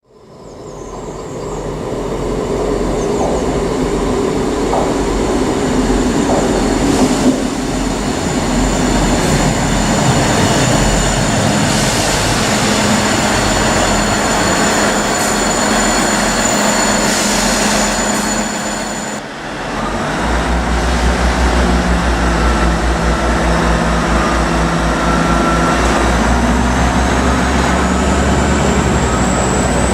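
A train running on the rails, with the rolling noise carrying thin high ringing tones. About two-thirds through the sound changes abruptly to a diesel engine running with a heavy, low, pulsing throb.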